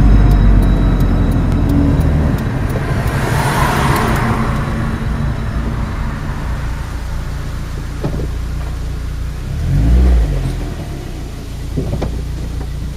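Honda Integra DC5's four-cylinder engine running, with a light fast ticking in the first few seconds and a brief swell in the engine note about ten seconds in. The ticking is one of the strange noises the owner is chasing.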